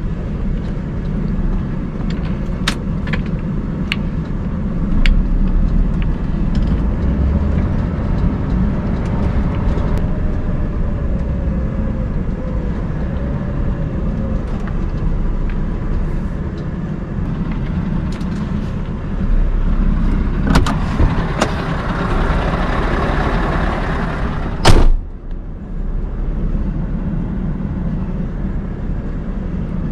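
Scania R580 truck's V8 diesel engine running steadily at low revs while the truck is manoeuvred, with a few sharp clicks in the first few seconds. About twenty seconds in, a rushing hiss builds and ends in one loud, sharp burst near twenty-five seconds, after which the engine carries on.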